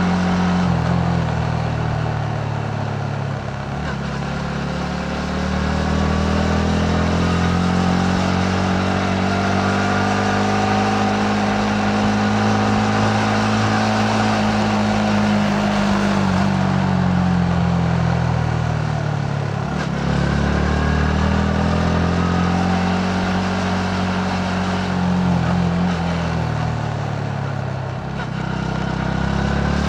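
Yamaha MT-15's 155 cc single-cylinder engine running under way. Its note climbs slowly for several seconds, then falls back, drops sharply about two-thirds through, rises again and dips near the end.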